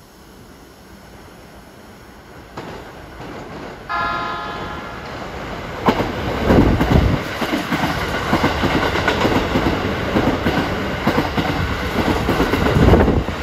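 Keikyu 1000-series electric train sounding its horn once, about a second long, about four seconds in. It then passes close at speed with a loud run of clattering rail-joint knocks.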